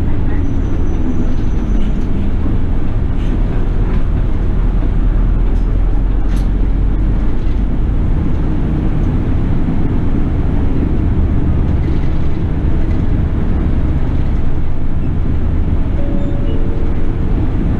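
City bus running, heard from inside the cabin: a steady low engine and road rumble.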